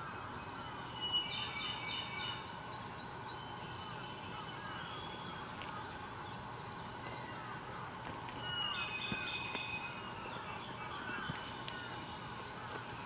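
Wild birds singing: a steady chorus of short chirps, with a louder held song phrase about a second in and again about eight and a half seconds in.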